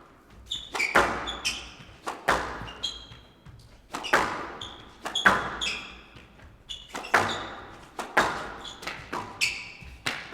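A squash rally: the ball is struck hard by rackets and hits the court walls about once a second, each crack echoing, with short high squeaks of players' court shoes on the floor between shots.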